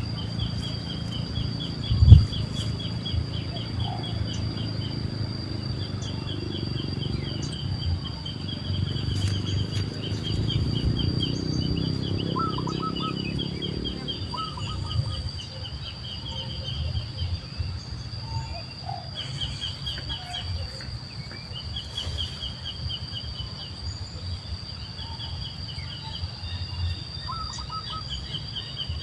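Outdoor nature sounds: a steady high insect drone with repeated rapid chirping trills and a few short bird calls. Under these is a low wind or handling rumble, and one sharp thump comes about two seconds in.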